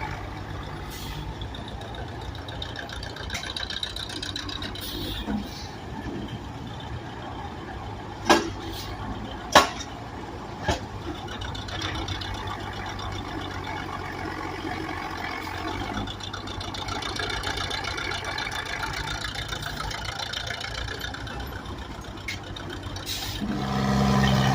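An engine running steadily with a low drone, with three sharp metallic knocks about eight, nine and a half and ten and a half seconds in.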